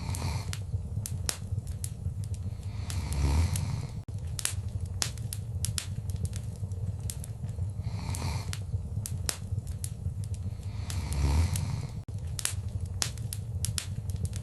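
Wood fire crackling, with frequent sharp pops and snaps over a low rumble. Twice, about three and eleven seconds in, a louder swell with a low thud rises above the crackle, the same pattern repeating about every eight seconds.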